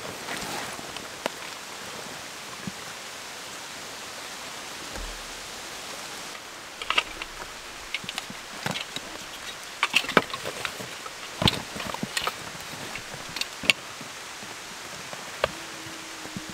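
Steady hiss of rain. From about six seconds in, a run of sharp clicks and wooden knocks as a folding wooden bucksaw is pulled out of a canvas backpack and unfolded.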